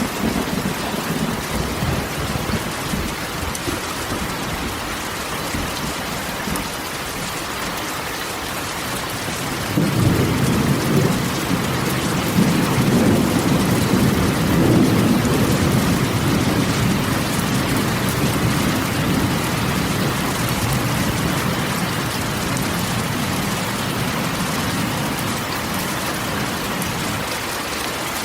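Steady rain falling on a corrugated metal roof, with thunder: a low rumble fades out over the first few seconds, and a louder roll of thunder comes in suddenly about ten seconds in and slowly dies away.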